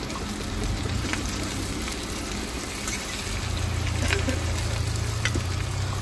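Spiny gourd (khekhsa) bhujiya frying in hot oil in a pan, a steady sizzle, stirred now and then with a few sharp clicks. A low hum swells in about halfway through.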